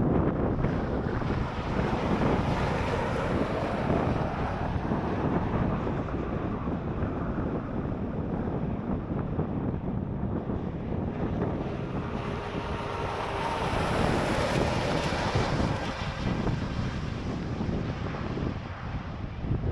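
Wind buffeting the microphone, a continuous rumbling noise that swells into a brighter hiss about two-thirds of the way through.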